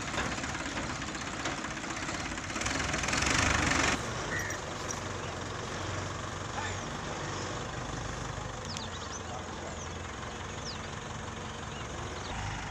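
Vehicle engine idling steadily, with a louder, noisier stretch about two and a half seconds in that drops back after another second or so.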